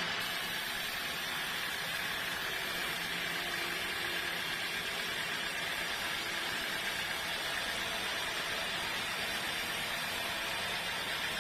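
Sawmill machinery running steadily: a constant even hiss with a faint steady tone, no strokes or changes.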